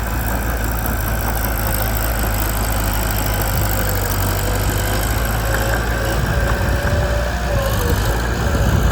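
Diesel engine of a Mitsubishi BD2 bulldozer running steadily with a low rumble and a faint whine above it, growing a little louder near the end.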